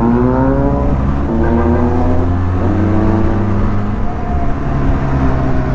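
Benelli TRK 502X parallel-twin motorcycle engine accelerating up through the gears: its pitch rises, drops at two upshifts about a second and a half apart, then holds steady. A low wind rumble runs underneath.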